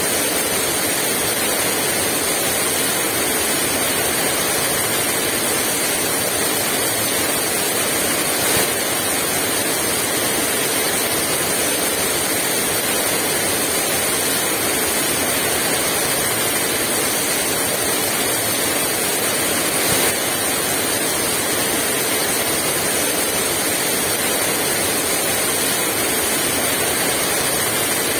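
Heavy rain falling steadily, an even downpour with no wind, with two faint brief taps, about eight and twenty seconds in.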